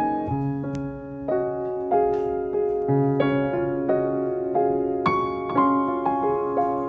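Soft background piano music, a gentle melody of evenly paced notes over held bass notes.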